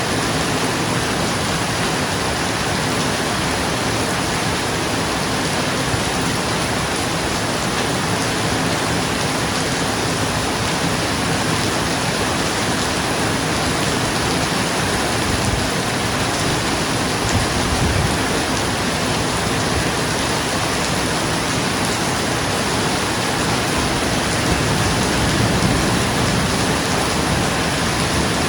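Steady, even rain falling on a roof.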